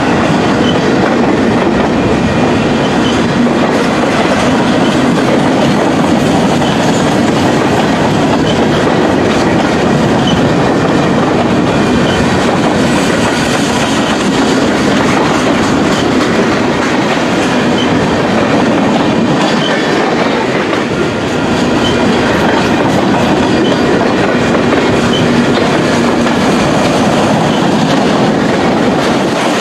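Freight cars rolling past on the rails, a steady loud run of wheel-on-rail noise with clickety-clack.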